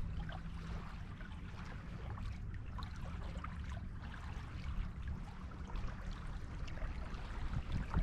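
Small waves washing and fizzing on a beach, a steady wash full of small crackles, over a low rumble.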